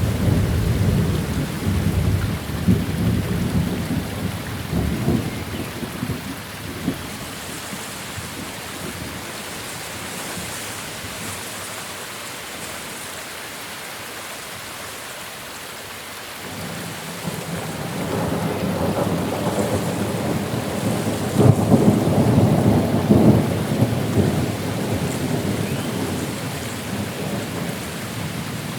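Steady heavy rain with two long rolls of thunder: the first breaks at the start and rumbles away over several seconds, the second builds about halfway through, peaks with a sharper crack, then fades.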